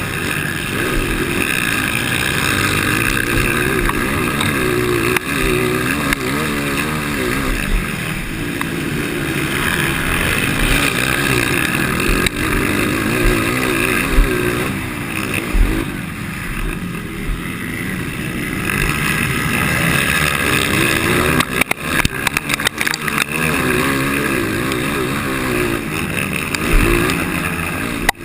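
230 cc motocross bike engine with a stock motor and aftermarket exhaust, revving up and down continuously as the rider works the throttle through the track, with a steady rush of wind noise over it. About three quarters of the way through, a quick run of sharp knocks breaks in.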